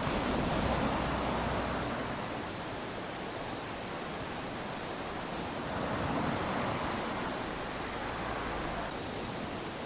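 Small waves lapping onto a sandy beach: a steady wash of surf that swells twice, once at the start and again about six seconds in, as each wave runs up the sand.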